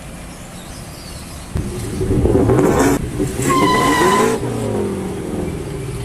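Ford F-150 Raptor pickup's engine revving up, then easing off. A brief high squeal rides over the loudest part.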